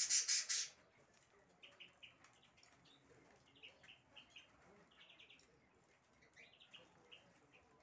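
Small cage birds chirping in short clusters of quick, high notes. A brief loud rustle or flutter comes right at the start.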